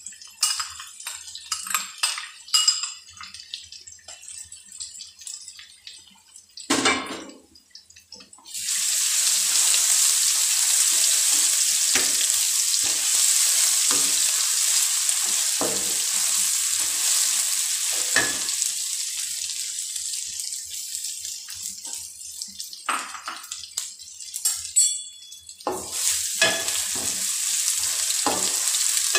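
Scattered knocks and scrapes of utensils on a metal kadhai. Then, about eight seconds in, a sudden loud hiss as ginger-garlic paste sizzles in the hot oil with browned onions while a plastic spatula stirs it. The sizzle eases, a few more knocks follow, and it rises again near the end.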